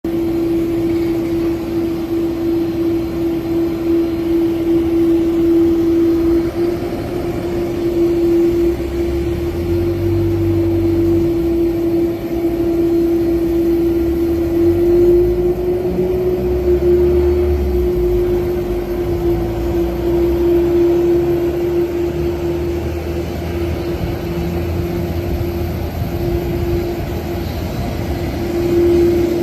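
Jet airliner noise: a steady hum with one constant tone over a low rumble that swells and fades.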